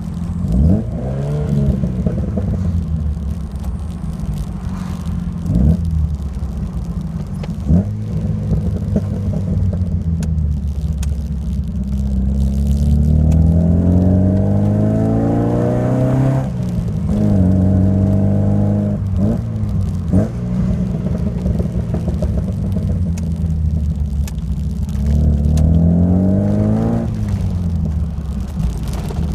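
1986 Alfa Romeo Alfasud Sprint QV's 1.5-litre flat-four boxer engine through a stainless steel exhaust, running with a few short throttle blips. It then revs up over several seconds, drops off suddenly and falls back, and climbs again near the end.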